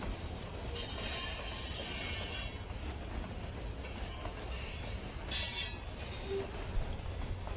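Freight train rolling past with a steady low rumble. Two spells of high hissing, wheel and rail noise, come through: a longer one about a second in and a short one past the middle.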